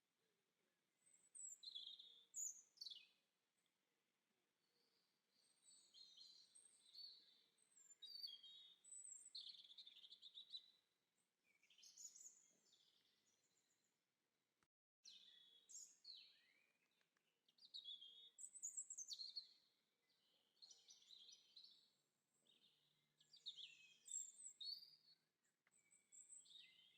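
Faint songbirds chirping and singing in short, repeated high phrases, with a brief cut-out about halfway through.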